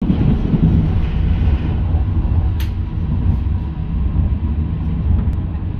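Passenger train running, heard from inside the carriage: a steady low rumble of the wheels and running gear. A single sharp click comes about two and a half seconds in.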